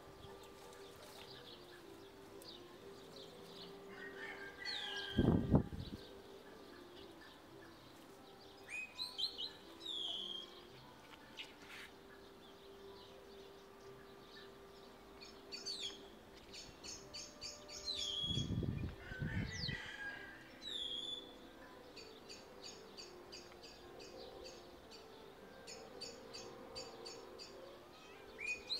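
Small birds chirping outdoors, with short downward-sliding calls and fast rattling trills repeated throughout. There are dull low thumps about five seconds in and again a little past the middle.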